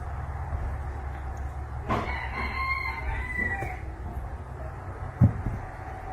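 A rooster crowing once, about two seconds in, over a steady low rumble. A short thump near the end.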